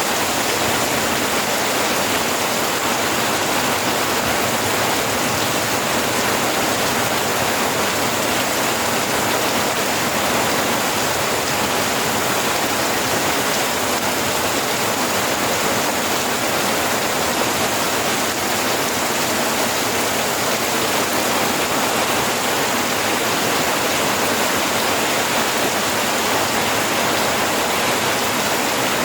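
Steady heavy rain: a dense, even hiss of rainfall that holds at one level without breaks or single distinct drops.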